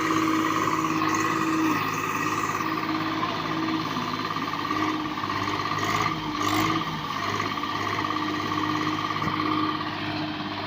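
Diesel engine of a Swaraj 744 FE tractor running steadily at idle.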